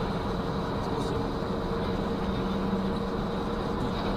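Steady running noise of a car driving: engine drone and road noise with a low, even hum.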